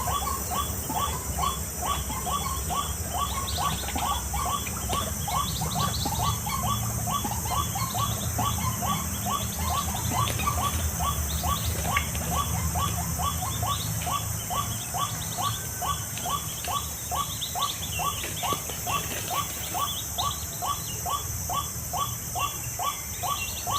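White-breasted waterhen (ruak-ruak) calling, a steady run of short, harsh notes repeated about twice a second without a break.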